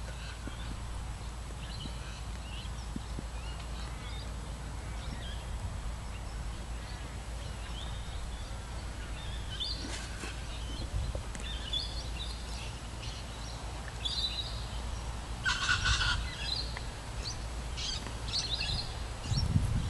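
Wild birds chirping and calling in the background, sparse at first and more often in the second half, with a louder cluster of calls about sixteen seconds in. A steady low hum runs underneath.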